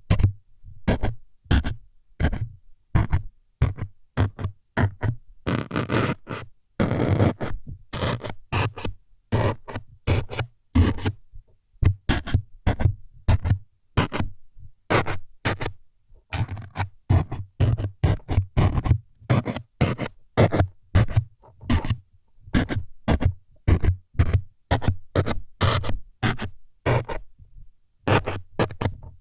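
Short scraping and scratching strokes right on the microphone, about two a second, with a longer unbroken scrape about six seconds in. They are ASMR trigger sounds made to stand for needles stabbing into the ear.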